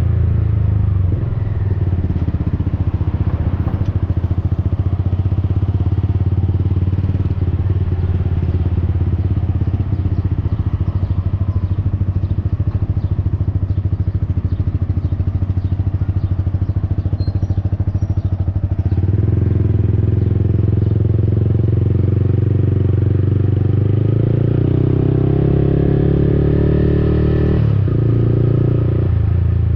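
Yamaha XSR155's single-cylinder engine through an aftermarket Akrapovic-replica exhaust while riding, running steadily at low revs. About two-thirds of the way in it opens up and gets louder, then the pitch climbs, with a short break near the end.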